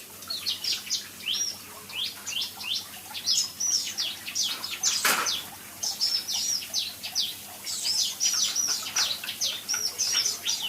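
Small aviary songbirds chirping rapidly and repeatedly, many short hooked notes one after another, excited at a feeding of live crickets. A single sharp knock sounds about five seconds in.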